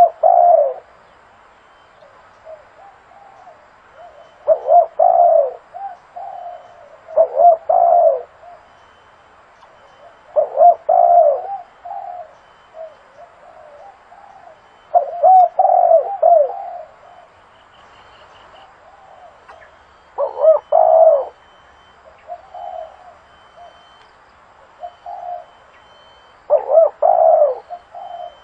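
Spotted dove cooing: a loud multi-note coo phrase roughly every three to five seconds, about eight in all, with softer single coos in between.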